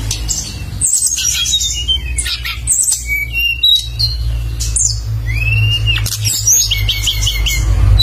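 A songbird singing a fast, varied song of sharp chirps and sweeping whistles, over a steady low hum.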